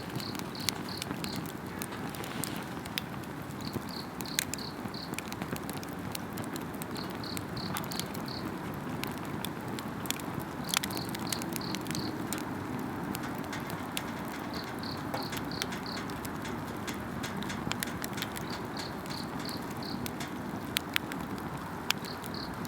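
Wood campfire crackling and hissing steadily, with frequent sharp pops. Over it an insect chirps in short phrases of four or five quick pulses, repeated every few seconds.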